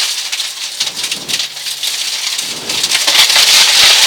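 Rally car on a gravel special stage heard from inside the cabin: a dense hiss of tyres on loose surface with stones pattering against the underside. It grows louder about three seconds in.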